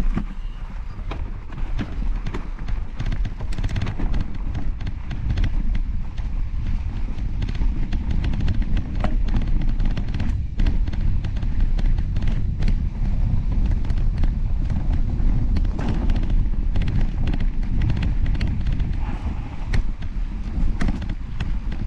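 Specialized Epic mountain bike being ridden on a dirt forest trail, heard through an action camera's microphone: a steady low wind rumble with frequent sharp clicks and rattles from the bike and tyres over the rough ground.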